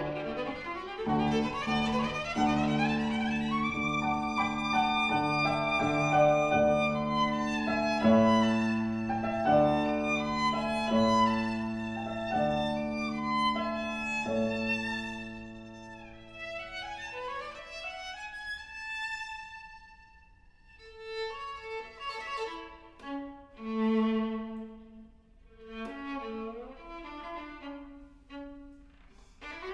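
Viola playing a slow passage over sustained low notes, then sliding upward in pitch glides about two-thirds of the way through. After that it turns quieter, with sparser, separated notes.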